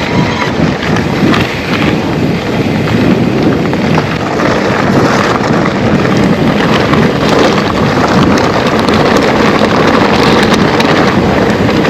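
Wind rushing over the microphone of a camera riding on an electric mountain bike, with tyres rolling and knocking over a rocky trail in many small clicks and rattles.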